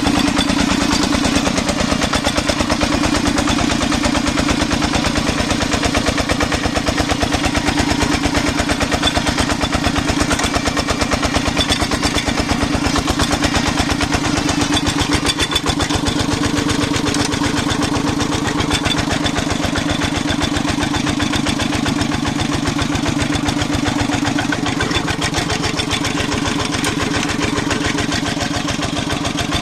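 Công nông farm vehicle's single-cylinder diesel engine running steadily with a fast, even chugging.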